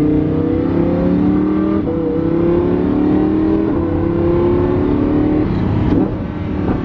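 Car engine accelerating hard through the gears, heard from inside the cabin. The engine note climbs, drops at an upshift about two seconds in and again near four seconds, then climbs once more before easing off near the end.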